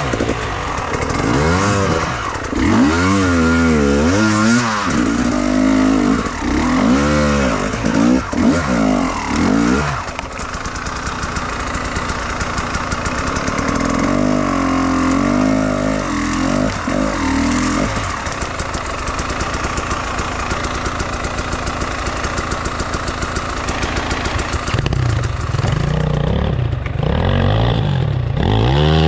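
Enduro motorcycle engine revving up and down again and again under throttle. It runs more steadily for two stretches in the middle, then the revving picks up again near the end.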